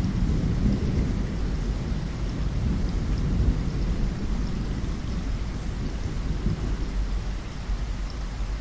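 Steady rain with a low rolling rumble of thunder that swells about a second in and slowly dies away.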